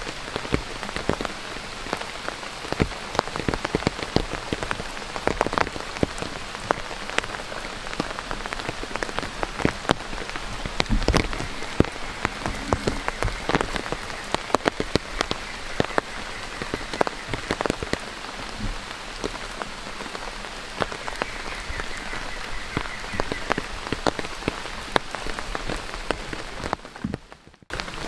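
Steady rain falling on a surface close by: a constant hiss with many sharp, separate drop hits over it. The sound dips out briefly near the end and then comes back.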